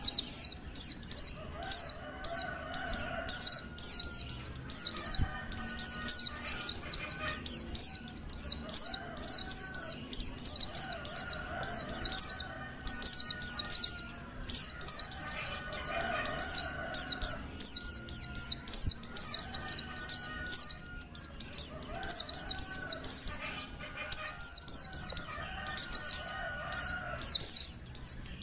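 Female white-eye (pleci) calling: a high, thin twittering of very quick chirps in bursts of about a second, repeated over and over with brief gaps.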